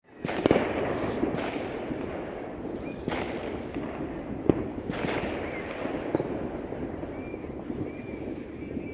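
Fireworks going off: a string of sharp bangs, the loudest about half a second in and again at about four and a half seconds, each with an echoing tail, over a continuous crackle of further bursts.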